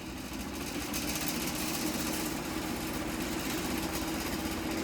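Electric box fan running steadily: a rushing air noise over a steady hum. The fan is badly worn, with about three broken blades and a cracked back.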